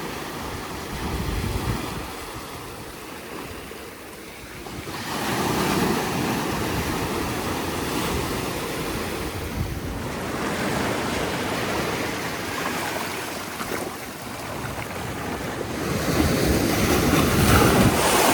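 Ocean surf breaking on a sandy beach, swelling in a fresh surge about every five to six seconds, with wind buffeting the microphone.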